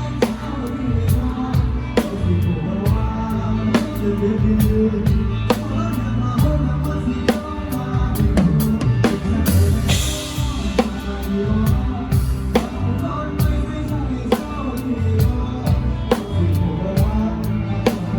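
Live band music with the drum kit up front: a steady kick and snare beat over bass guitar and other instruments, with a cymbal crash about ten seconds in.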